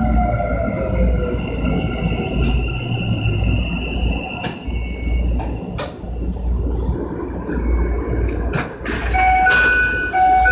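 Keikyu 1000-series electric train running, heard from the cab: a steady low rumble with scattered wheel clicks over rail joints, and a motor whine falling in pitch during the first second as the train slows. Short high beeps repeat every few seconds, and a pitched chime sounds near the end.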